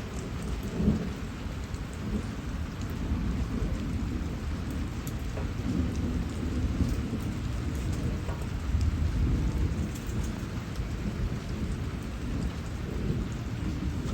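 Steady rain falling, with the low rolling rumble of thunder swelling and fading underneath it.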